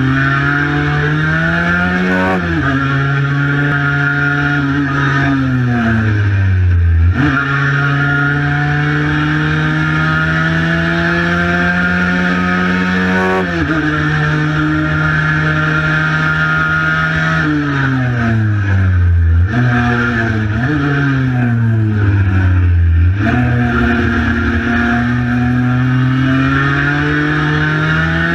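Cagiva Mito 125's single-cylinder two-stroke engine ridden hard, its pitch climbing steadily through each gear and dropping sharply at two upshifts. In the second half the pitch falls and jumps back up several times as it downshifts, then climbs again.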